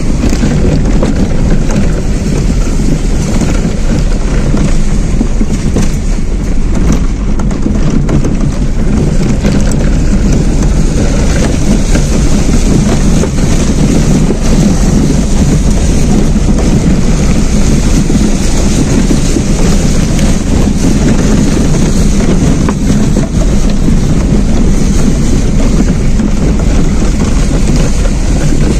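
Car engine held at full throttle in first gear while the car fords a shallow river, with water rushing and splashing against the wheels and underbody. The sound is loud and steady.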